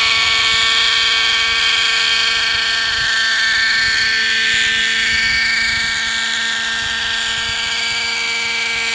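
Hirobo Sceadu model helicopter's .50-size nitro two-stroke engine and rotors running steadily in flight, a high, even whine whose pitch drifts slightly as the helicopter moves. The engine runs at lower revs than it should because its fuel mixture is not quite right.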